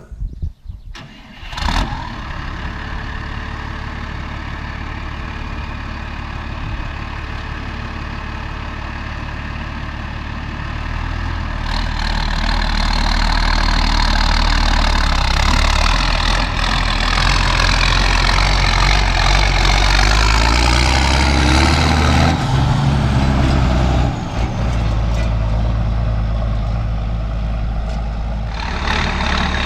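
Valtra 8750 tractor's turbo-diesel engine on a straight-pipe exhaust, coming to life with a sharp burst about two seconds in and then running steadily. From about twelve seconds in it runs louder and its pitch glides up and down, with a high turbo whistle rising and falling, before it settles back near twenty-two seconds.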